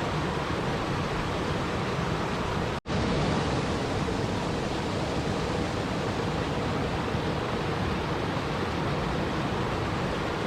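Steady rushing water noise. It cuts out for an instant about three seconds in, then carries on unchanged.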